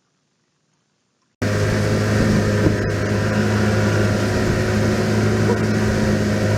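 Near silence, then, about a second and a half in, a motor vehicle's engine cuts in abruptly and runs with a steady hum over a noisy rush.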